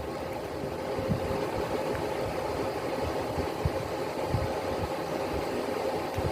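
A steady mechanical hum with a held mid-pitched tone, broken by a few soft, low thumps.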